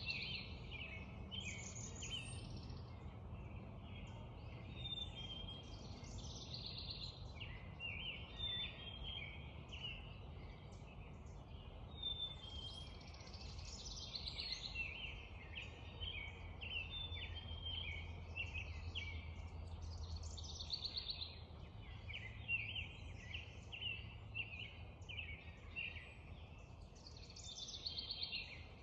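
Many birds singing at once in a spring dawn chorus: dense, overlapping chirps, whistles and trills from several birds, over a steady low background rumble.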